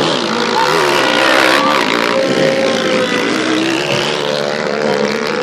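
Several motocross dirt bikes' engines revving and running at once, their pitch rising and falling as they race.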